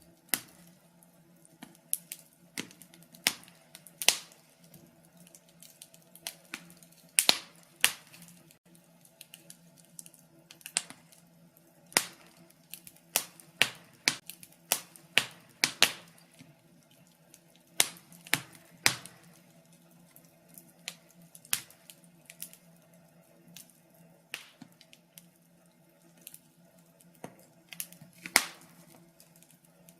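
Wood fire in a fireplace crackling: irregular sharp pops and snaps of burning logs, some in quick clusters, over a faint steady low hum.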